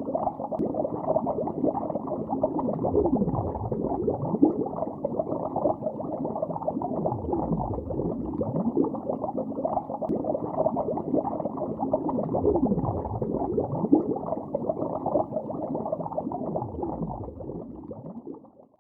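Muffled underwater bubbling, a dense steady stream of bubbles with low swooping sweeps every few seconds. It fades out near the end.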